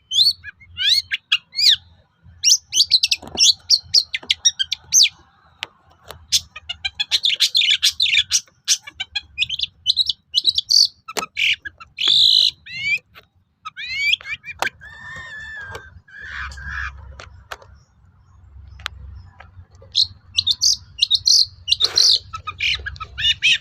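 Long-tailed shrike (cendet) in full song: rapid phrases of sharp chirps and quick sweeping whistles, broken by short pauses, with a few lower notes near the middle.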